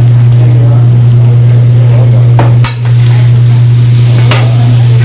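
Food sizzling on a hot griddle under a loud steady low hum, with a few sharp metallic clinks in the second half.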